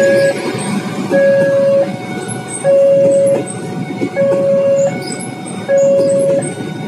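Passenger train coaches running past on the rails, with a level crossing's electronic warning alarm over them. The alarm repeats a two-note tone, low then high, about one cycle every second and a half.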